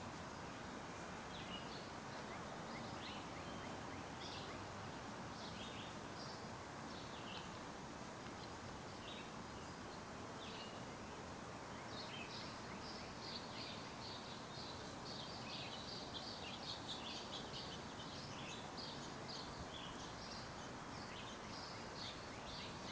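Background birdsong: many short, high chirps and calls from small birds, coming more thickly in the second half, over a steady outdoor hiss.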